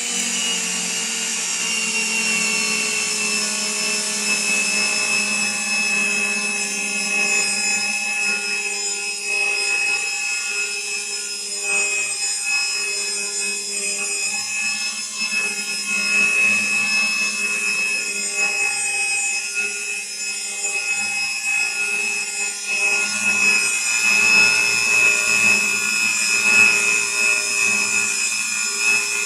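RIDGID 535 threading machine running, cutting threads on ribbed rebar: a steady high motor whine over a low hum, with an uneven pulsing in the cutting sound that grows somewhat louder in the last few seconds.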